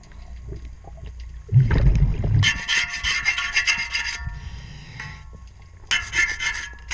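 Underwater scraping on a boat propeller during in-water cleaning: two spells of rapid rasping strokes, the second starting near the end. A low rumbling burst comes just before the first spell.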